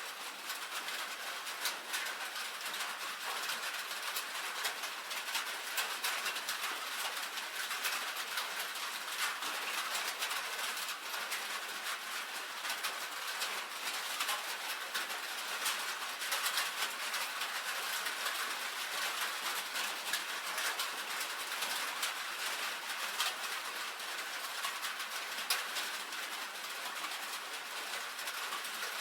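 Steady rain on a tin roof: a dense patter of drops with many sharp little ticks, even throughout.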